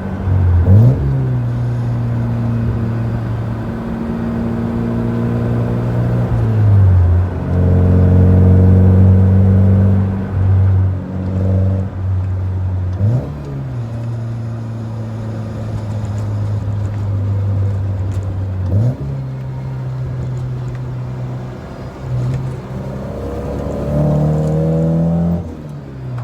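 Nissan 240SX (S14) four-cylinder engine through an HKS Hi-Power exhaust, heard from inside the cabin while driving. The note holds steady for long stretches, with several quick jumps and drops in pitch.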